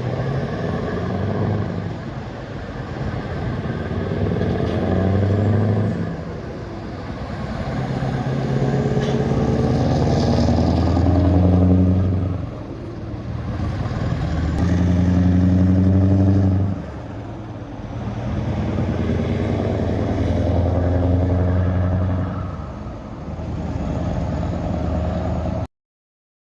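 Scania V8 diesel truck engine revving: it climbs in pitch and loudness, then falls back, about four times. The sound cuts off abruptly near the end.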